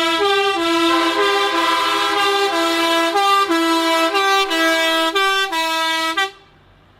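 A truck's musical air horn playing a tune, its notes stepping up and down every fraction of a second, before cutting off suddenly about six seconds in.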